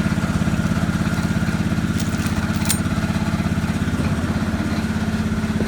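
Small engine idling steadily with an even, rapid chugging beat.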